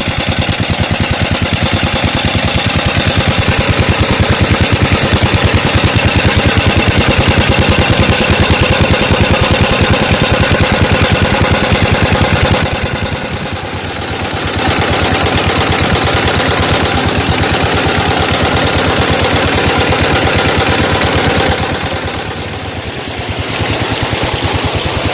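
A 16 HP Petter-type single-cylinder diesel engine runs steadily, driving a tube-well water pump, with a fast, even beat. The sound is briefly quieter twice, near the middle and near the end.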